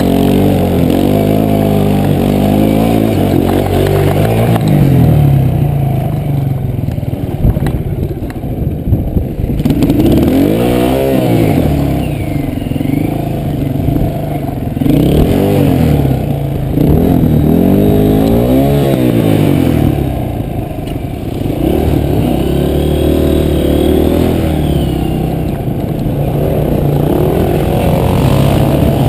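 Enduro dirt bike engine revving up and easing off again and again as it is ridden over a rough dirt track, heard close up from a camera mounted on the bike. Short knocks and rattles come in about a third of the way through.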